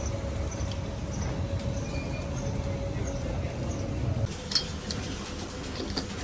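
A steady low machine hum with a faint whine, which cuts off about four seconds in, followed by a few sharp metallic clinks of tools on engine parts.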